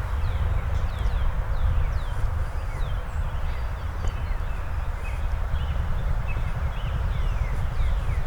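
Songbirds chirping: many short, quickly falling notes repeated all the way through, over a steady low rumble.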